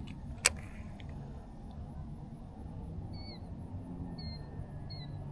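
Short, high bird chirps repeated about once a second from about three seconds in, over steady low background noise. A single sharp click comes about half a second in.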